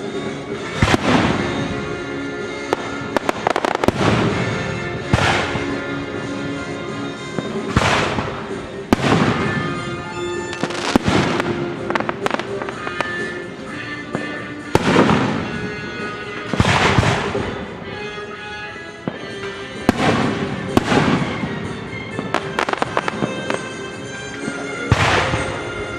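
Fireworks shells bursting in a steady barrage, a loud bang every second or two with bursts of rapid crackling, over orchestral music.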